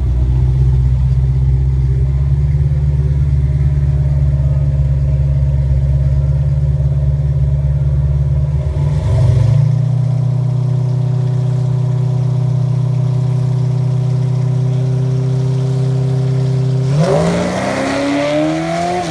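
Drag car engine idling steadily, its note shifting about halfway through. Near the end it revs up and the pitch climbs steadily as the car pulls away.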